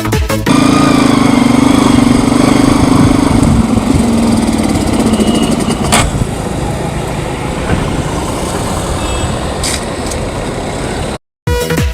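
Karizma motorcycle's engine running, a steady low drone for the first few seconds that gives way to a rougher, noisier sound, with a sharp click about six seconds in. The bike has water in its fuel, which makes it slow to start.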